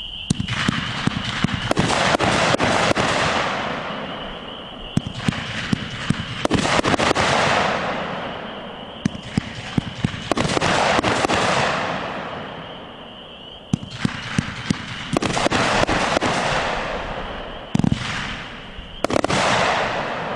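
500-gram firework cake firing its 25 one-inch tubes: volleys of sharp shots about every four seconds. Each volley is followed by a swelling, then fading hiss and crackle as the brocade and glittering-tailed stars burn out.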